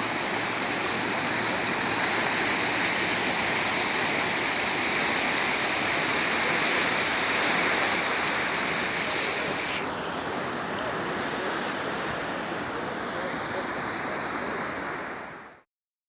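Swollen floodwater rushing, a steady wash of water noise that drops a little about ten seconds in and cuts out just before the end.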